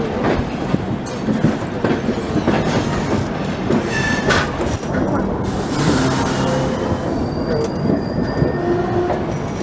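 Passenger train coach running on the rails, heard from on board, with rattling and clattering and brief high-pitched wheel squeals. A short hiss comes about halfway through.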